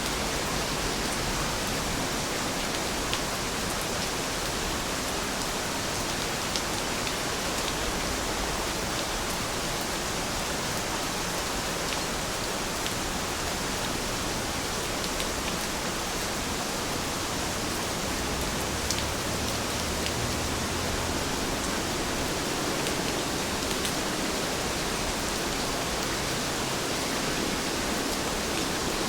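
Steady rain falling, an even hiss with now and then a faint drop tick.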